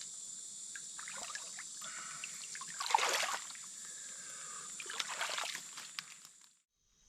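Water trickling and splashing, with two louder splashes about three seconds and five seconds in, over a steady high-pitched insect drone; the sound cuts off abruptly near the end.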